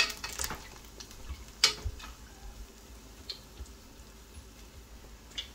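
Pholourie fritters sizzling as they deep-fry in a pot of hot oil, stirred and turned with a spatula. A few sharp knocks of the spatula against the pot, the loudest about a second and a half in.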